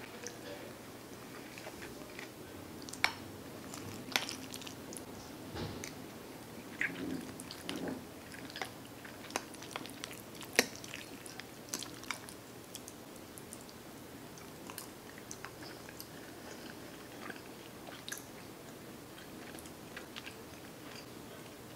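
Person chewing a mouthful of soft baked macaroni and cheese: wet, squishy mouth sounds with many scattered sharp clicks, busiest in the first half and thinning out toward the end.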